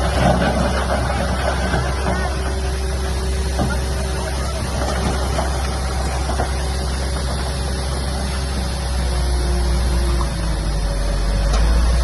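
Heavy earth-moving machinery's diesel engine running steadily, with some clattering in the first second and the engine growing a little louder near the end.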